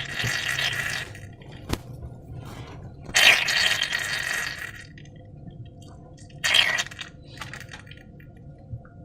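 Wet slime mixture squelching and pouring in bursts: one lasting about a second at the start, a longer one a few seconds in and a short one later, with a single sharp click in between.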